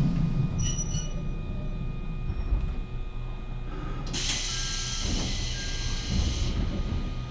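Kamikochi Line electric train slowing to a stop, heard from inside the car: the low running rumble dies away, with a brief high squeal about half a second in. From about four seconds in comes a steady hiss of compressed air lasting a couple of seconds.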